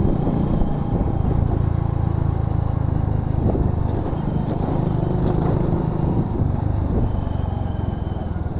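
Motorcycle engine running steadily, a low even hum.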